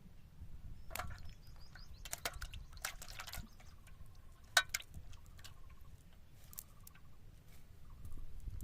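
Water splashing and dripping in a few short bursts, about a second in, again in the middle, and once more shortly after.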